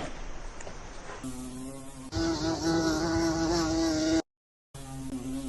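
A flying insect buzzing: a steady drone that starts about a second in and jumps higher and louder about two seconds in. It cuts out for half a second near the end, then resumes at the lower pitch.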